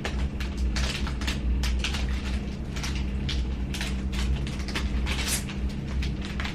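Irregular clicks and rustles of handling over a steady low hum.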